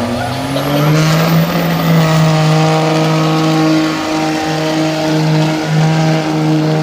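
Truck engine revving up in the first second, then held at high, steady rpm under load as it pulls the weight sled, with a few brief dips in pitch partway through.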